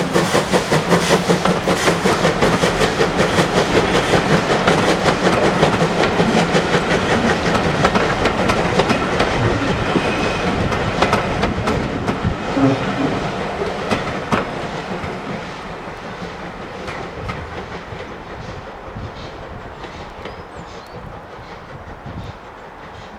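Steam-hauled train running past on a heritage line, its wheels clicking over the rail joints in a steady rhythm, then fading as it moves away.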